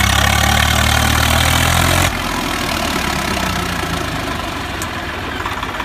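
Tractor diesel engine running with a strong steady note; about two seconds in the sound drops suddenly to a quieter, rougher engine noise.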